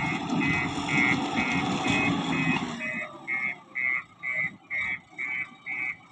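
Reversing alarm on a construction machine beeping about twice a second, over the machine's engine running. The engine noise drops away about three seconds in, leaving the beeps.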